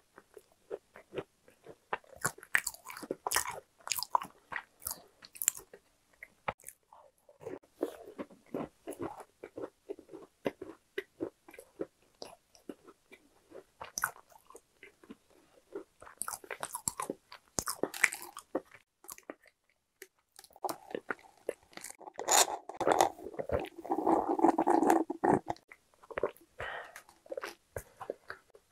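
Close-miked eating sounds of a crunchy cookie being bitten and chewed: crisp crunches, wet chewing and mouth clicks, in bouts. The loudest bout comes past the middle.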